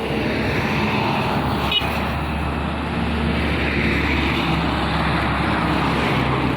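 Heavily loaded Mitsubishi Fuso truck's diesel engine labouring slowly up a hill climb. It is steady and loud as the truck passes close, with a brief click a little under two seconds in.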